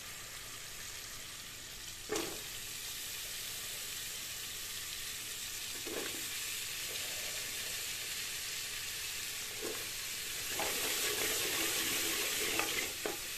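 Onion-garlic masala sizzling in an aluminium pressure cooker as chopped bottle gourd is added and stirred in with a wooden spoon. There are a few knocks against the pot. The sizzling and stirring get louder about ten seconds in.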